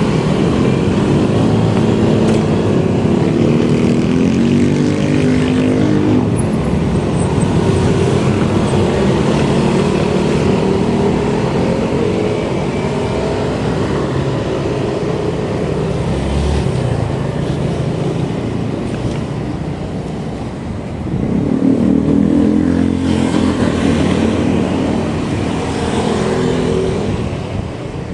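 A road vehicle's engine running under way, its pitch wavering up and down, over a steady rush of road and wind noise. The engine grows louder and higher about three-quarters of the way through, as it accelerates.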